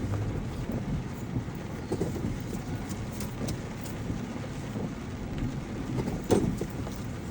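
Vehicle driving with a steady low road rumble and a few light rattles, and one sharp knock about six seconds in.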